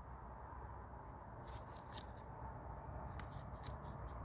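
Faint clicks and light handling noise over a low steady hum, a few short clicks about a second and a half in and a small cluster after three seconds.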